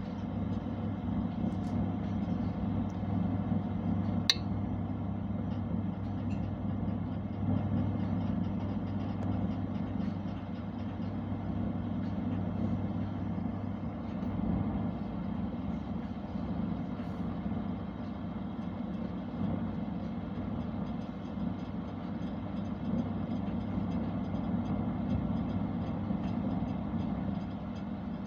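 Constructa oven running with a steady low hum and whir, with a single sharp click about four seconds in.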